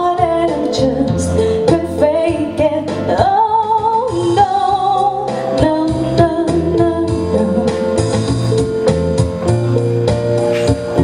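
Live music: a woman singing over plucked guitar accompaniment. The vocal line fades out about halfway through while the instruments play on.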